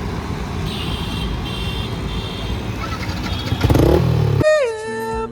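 Yamaha R15M motorcycle on the move, engine and wind noise rumbling steadily and growing briefly louder near four seconds in. About four and a half seconds in it cuts off abruptly into a wavering musical tone.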